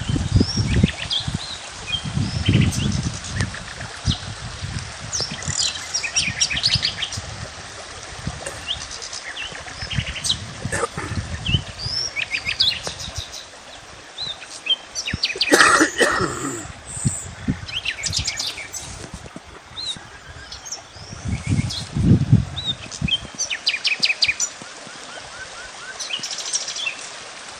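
Several wild birds chirping and calling in short repeated phrases over a steady outdoor hiss, with one louder call partway through and a few low rumbles.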